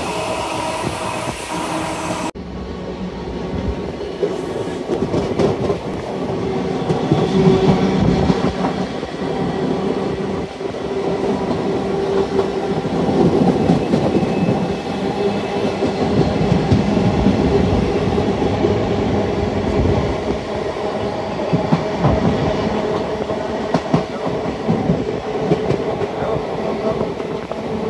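Passenger train running, heard from inside the coach: a steady rumble with the wheels clacking over the rail joints. The high hiss drops away abruptly about two seconds in.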